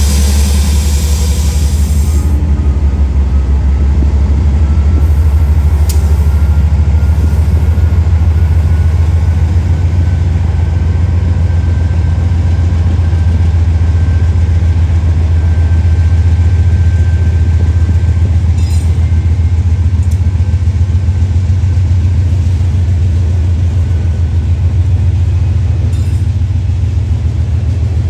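Freight train rolling past, a loud, steady low rumble, with a faint high whine that rises slowly through the middle and a few light clicks.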